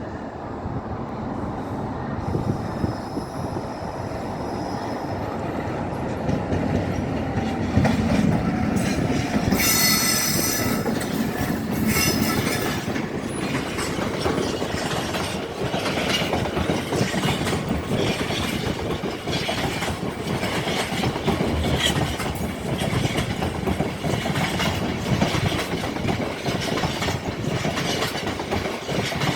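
Freight train passing: the rumble builds as the locomotive comes by, with a brief high wheel squeal about ten seconds in. Then the wagons go by with a rhythmic clickety-clack of wheels over the rail joints.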